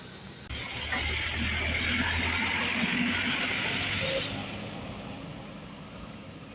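A city bus driving past close by, its engine running low under the noise of the bus on the road. The sound comes up suddenly about half a second in and fades away after about four seconds.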